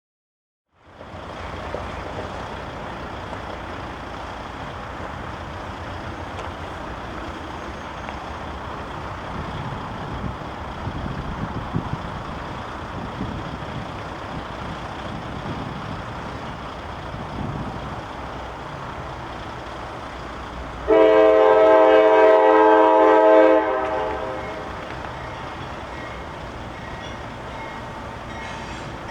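A train rumbling along the track on the CSX main line. About 21 seconds in, a locomotive air horn sounds one loud blast of a chord lasting two to three seconds.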